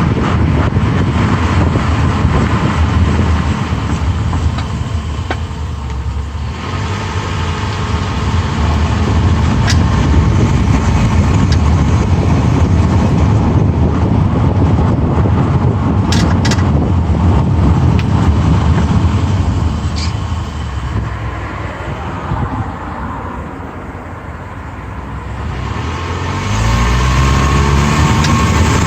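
Mitsubishi Outlander Sport being driven, with steady road and engine noise and a few sharp clicks about ten, sixteen and twenty seconds in. The noise eases for a few seconds, then the engine note climbs near the end as the car speeds up.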